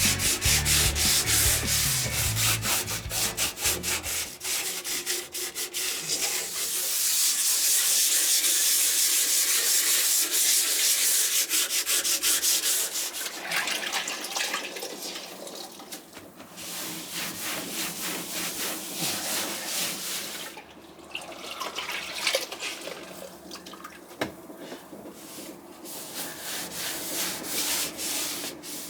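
Sanding at a narrowboat's bow to prepare it for paint: a continuous rasping rub that is loudest in the middle and grows patchier and quieter towards the end. The end of a music track fades out in the first few seconds.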